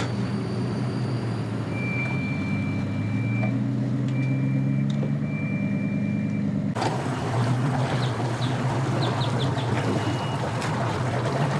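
Engine running steadily at low speed, a low, even hum. A thin high tone sounds on and off during the first half. About seven seconds in, the sound abruptly turns rougher and noisier.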